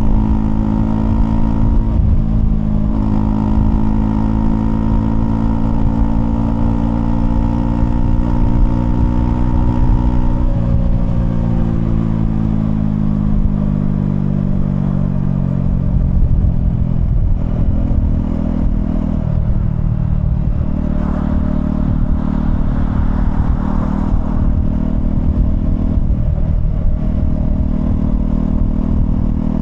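Honda CL250's single-cylinder engine and exhaust running under way. The pitch holds and climbs a little, falls off about ten seconds in as the bike slows, then runs lower with small rises and dips.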